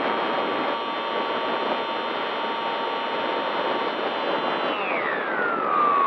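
Electric motor and propeller of a radio-control aircraft running with a steady high whine over a rush of air, then throttled back about five seconds in, the whine falling steeply in pitch.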